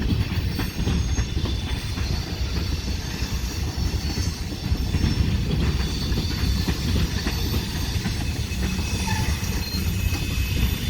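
Freight train rolling by, its cars rumbling and clattering over the track, with faint high-pitched wheel-flange squeal as it rounds a curve.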